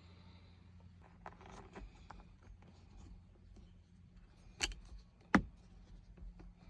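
Small objects being handled: light rustling and taps over a steady low hum, with two sharp clicks under a second apart near the end.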